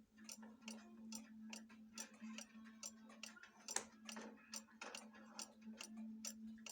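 Pendulum cuckoo clock ticking steadily, about three ticks a second, over a faint steady low hum.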